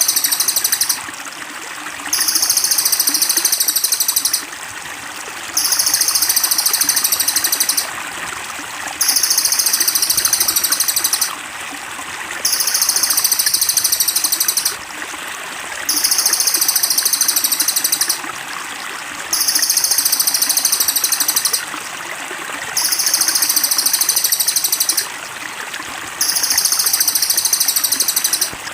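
A recorded songbird's high, rapid buzzing trill, played as a master call for training caged songbirds, repeating in identical phrases of about three and a half seconds with a one-second gap, over steady trickling water.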